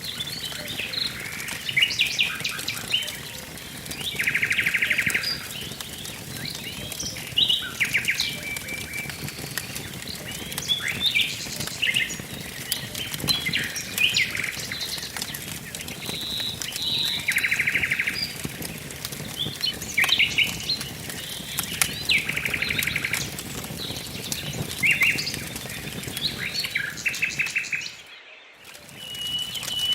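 Several songbirds singing and calling, with chirps and rapid buzzy trills repeating every few seconds, over the steady crackle and popping of a wood fire. Everything drops out briefly near the end.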